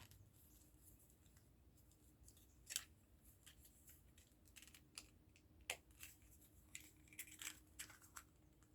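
Faint clicks and taps of small plastic model parts being handled, over near silence. One sharper click comes about a third of the way in and another just past the middle, with a cluster of small clicks near the end.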